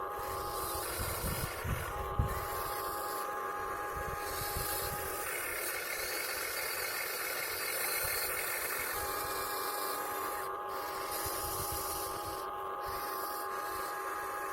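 Electric motors of a radio-controlled Huina 1580 excavator whining as its functions are worked, the whine starting and stopping every few seconds over hissing and scraping, with a sharp knock about two seconds in.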